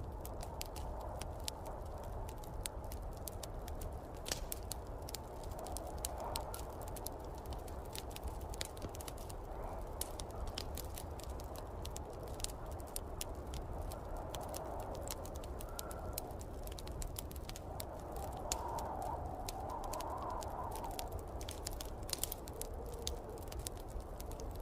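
Wood fire crackling in a fireplace, with frequent irregular sharp pops. Behind it a steady low rumble and hiss, typical of snowstorm wind, swells a little now and then.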